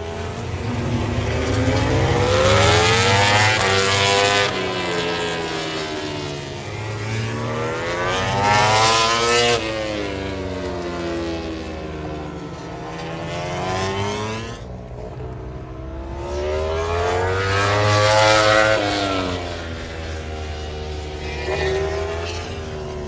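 MotoGP racing motorcycles passing at speed, their high-revving engines rising and falling in pitch as each goes by. There are three loud passes, with a brief break in the sound about two-thirds of the way through.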